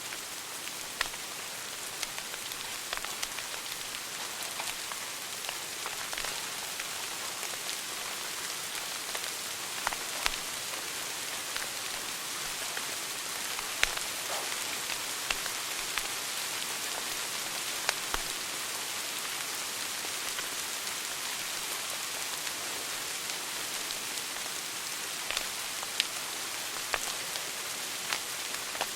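Wood fire burning in a fireplace: a steady hiss of burning logs with scattered sharp crackles and pops, a dozen or so over the stretch.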